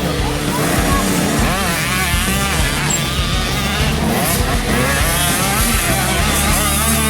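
Several motocross bikes racing, their engines revving up and down as the riders work the throttle.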